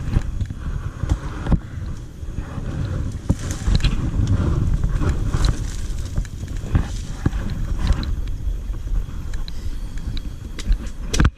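Dirt bike ridden slowly in first gear: a continuous low rumble of engine and wind, with scattered knocks and rattles.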